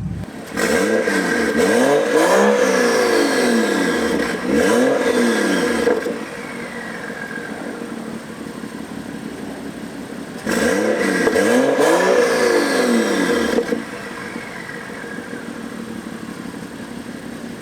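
BMW X5 engine revved in quick blips through a Vibrant Performance 10632 muffler fed by a catless downpipe, a deeper exhaust tone. Two bursts of revs, each several rises and falls in pitch, with the engine settling back to a steady idle between them and near the end.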